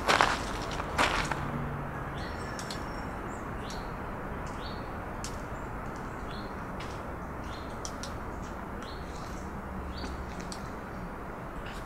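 Small birds chirping, short high notes scattered irregularly over a steady low outdoor background. Two short crunching noises, the loudest sounds, come in the first second or so.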